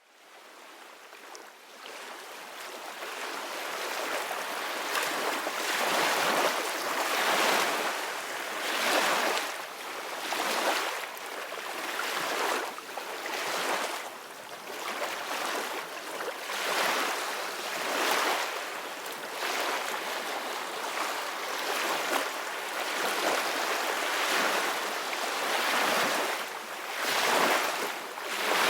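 Sea waves washing ashore, the noise swelling and easing every couple of seconds, after fading in at the start.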